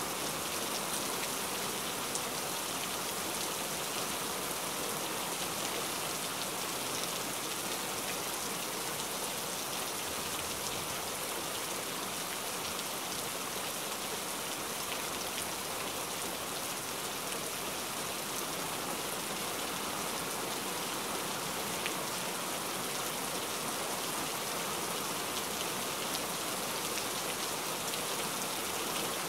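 Steady rain falling: an even hiss with faint scattered ticks of single drops.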